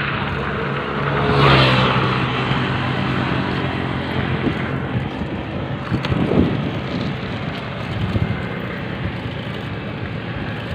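Motor vehicle traffic with wind noise, one vehicle passing loudly about a second and a half in and another around six seconds.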